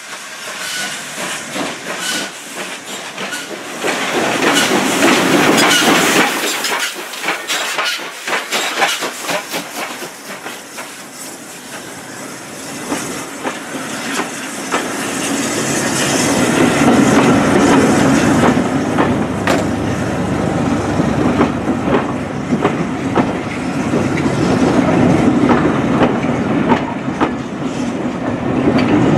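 Steam-hauled train of coaches passing at close range: the wheels click and clatter over the rail joints as the carriages roll by, louder from about four seconds in and again in the second half.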